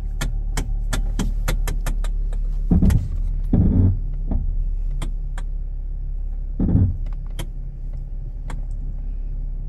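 A 2013 Kia's engine idling, heard from inside the cabin as a steady low hum. Over it come quick clicks, about three a second for the first two seconds and then scattered, and three louder thumps.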